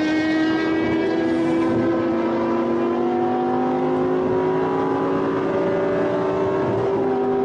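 Audi R8 engine pulling hard at high speed, its tone rising slowly and evenly under sustained acceleration, over a steady rush of wind and tyre noise.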